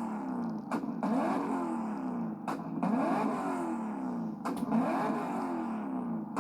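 Performance car engine revving repeatedly, its pitch climbing and dropping about once a second, with a sharp bang roughly every two seconds.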